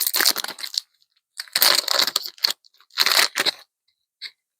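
Foil booster pack wrapper crinkling and tearing open in three crackly bursts, with a couple of small ticks near the end.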